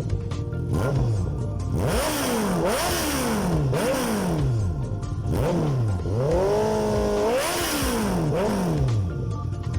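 Honda CB650R's inline-four revved through an SC Project CRT exhaust in several quick throttle blips, each rising and falling back. Near the end one rev is held high for about a second before dropping back.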